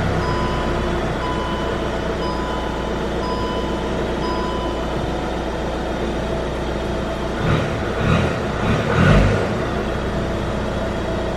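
2022 Skoda Octavia Combi's 2.0 TDI four-cylinder diesel idling steadily just after a startup. About two-thirds of the way through, it takes a few short throttle blips in quick succession before settling back to idle.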